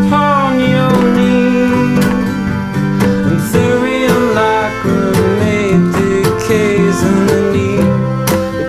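Acoustic live music with no singing: plucked guitar notes under a wavering, sustained melody line.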